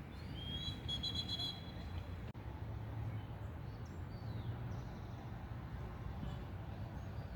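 Small birds chirping, a quick run of short rising chirps in the first second and a half and a few fainter ones later, over a steady low rumble.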